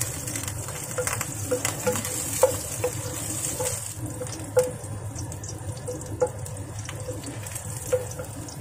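Ginger slices sizzling in hot oil in a nonstick pan, stirred with a wooden spatula that knocks against the pan about twice a second, each knock ringing briefly. The sizzle eases about halfway through.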